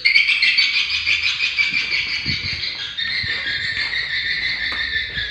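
Swiftlets twittering: a dense, continuous mass of rapid overlapping chirps.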